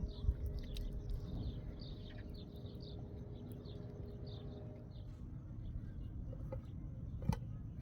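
Small birds chirping in short, scattered calls over a steady low rumble, with one sharp knock near the end.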